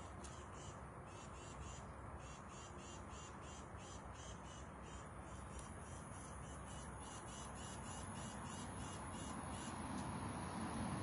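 Insects chirping in a fast, even pulse over a low, steady hiss that grows louder near the end.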